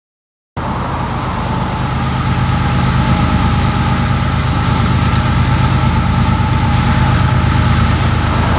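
Diesel locomotive engines running with a steady low rumble, cutting in abruptly about half a second in and growing a little louder over the next couple of seconds.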